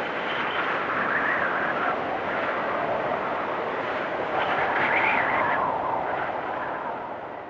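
Blizzard wind rushing in gusts, swelling strongest about five seconds in and fading near the end.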